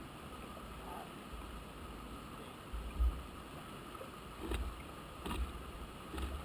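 Irregular low rumbling gusts of wind buffeting the microphone, with three sharp knocks in the second half.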